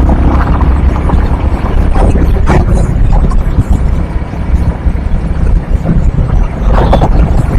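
Motorcycle riding at highway speed: a steady deep rumble of wind and engine on the microphone, with a few brief gusts.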